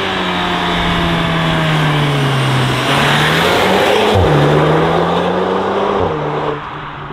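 Stage 2 tuned Volkswagen Golf 8's turbocharged four-cylinder engine pulling hard under throttle. About four seconds in the pitch drops at an upshift and then climbs again, and the sound falls quieter near the end as the throttle lifts.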